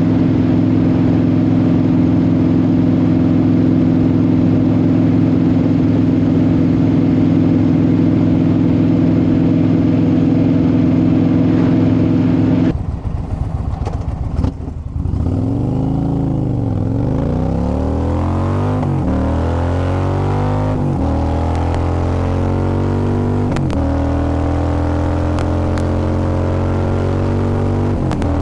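Motorcycle engines running while riding: a steady, even drone at constant speed, then, from about 13 seconds in, engine notes rising and falling in pitch as the bikes speed up and slow down.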